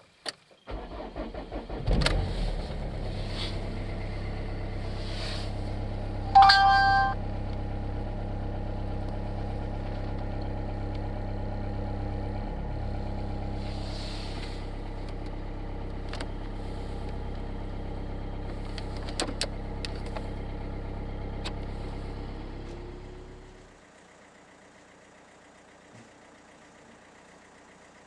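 A car engine is cranked by the starter and catches about two seconds in, then idles steadily. A loud electronic beep sounds for about half a second around six seconds in. The engine sound cuts off abruptly near the end, leaving a faint hiss.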